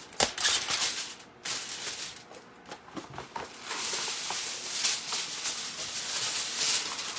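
Aluminium foil crinkling and rustling as it is handled, with a sharp click just after the start. There is a quieter lull in the second and third seconds, then dense, steady crinkling.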